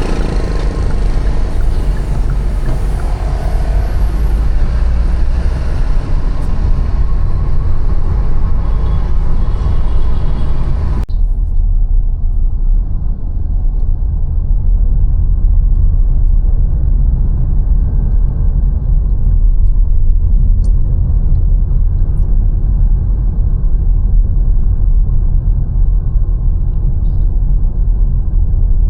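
Steady low rumble of city traffic and wind on the microphone, heard from a bike moving along city streets. About eleven seconds in the higher sounds cut off abruptly, leaving only the muffled rumble.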